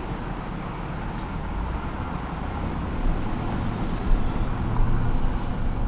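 Steady low engine and road rumble of a vehicle being driven, getting a little louder in the second half.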